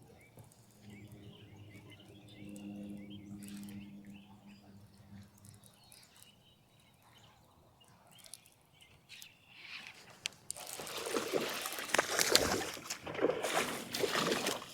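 Birds chirping faintly over a low hum, then, about ten seconds in, loud splashing and water noise as a bass is fought and landed right beside a kayak.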